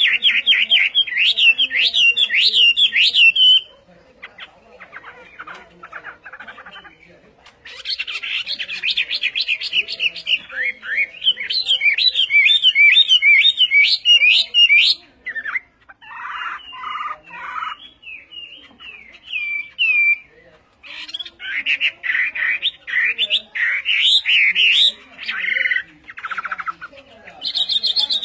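A songbird singing a fast, varied song of quick trills and warbled phrases, in several bursts that start and stop abruptly with short pauses between them.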